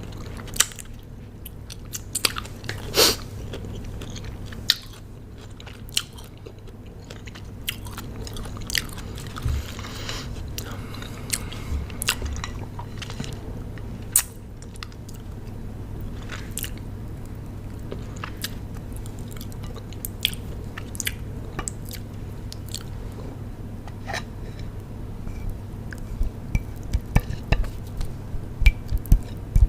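Close-up chewing of crunchy raw cucumber: irregular sharp crunches and mouth sounds over a steady low hum, the crunches coming thick and fast near the end.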